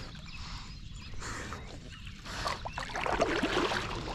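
Kayak paddle strokes dipping into river water, a splashy swell about once a second, louder and busier near the end.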